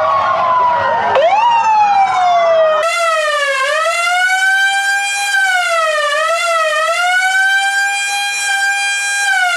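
Emergency-vehicle siren sound effects. First two sirens overlap, one falling in pitch as another sweeps up, over a low rumble. About three seconds in, they switch abruptly to a single clean electronic wail that rises and falls slowly, with two quick dips in the middle.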